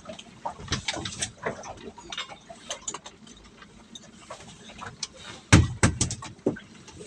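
Irregular knocks, clicks and rattles of a crab or prawn trap being handled aboard a boat, with the heaviest thumps about five and a half seconds in.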